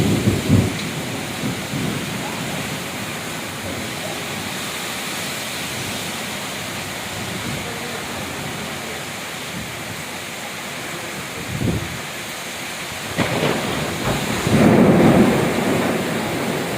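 Heavy rainstorm: a steady hiss of rain with deep rumbles that swell briefly about three quarters of the way through and again, loudest, near the end.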